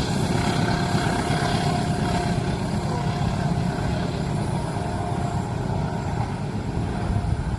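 Train passing close by at a level crossing: a steady, loud rumble of wheels on the rails, with a faint thin squeal over it.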